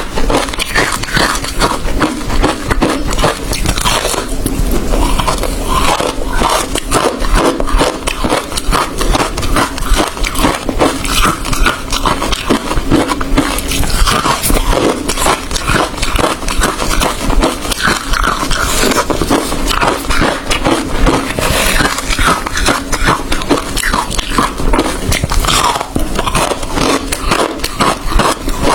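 A person biting and chewing hard ice close to the microphone, a dense, continuous run of loud crunches and cracks.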